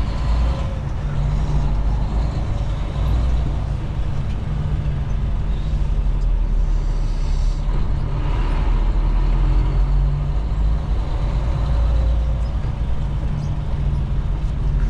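Semi-truck's diesel engine running, heard from inside the cab as a steady low rumble.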